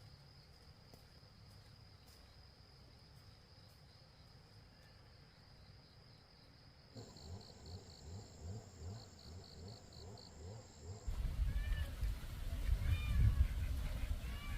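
A domestic cat meowing in short, repeated calls over a low rumble in the last few seconds. Before that come a quiet stretch with a steady high tone, then a few seconds of rhythmic low thuds.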